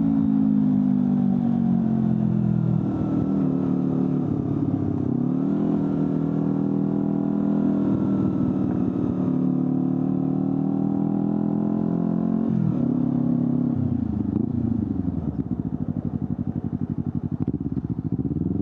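Honda CBR250RR's parallel-twin engine running through an Akrapovic slip-on exhaust while riding: the revs fall away over the first few seconds, then climb again after shifts about five and twelve seconds in. Near the end it pulls at low revs with the separate firing pulses audible before revving up again.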